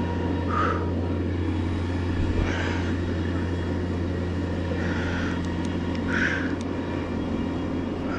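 An engine running steadily in a low, even hum, with four short higher-pitched sounds over it.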